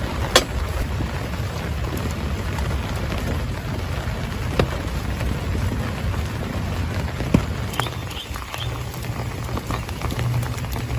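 Heavy rain falling steadily, with three sharp taps: about half a second in, again around four and a half seconds, and again about seven and a half seconds in.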